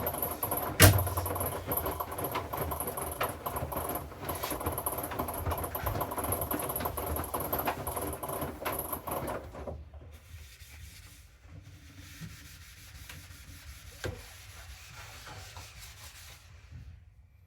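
Hoover inverter washing machine tumbling its wash, the motor whining steadily over the swish and rub of the load, with a sharp click about a second in. The drum stops about ten seconds in, leaving only a faint background noise with a few light knocks.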